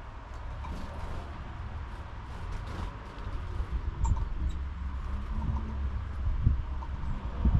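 Outdoor ambience dominated by a steady low rumble, with a few faint, short chirps from small birds at a feeder, one about four seconds in.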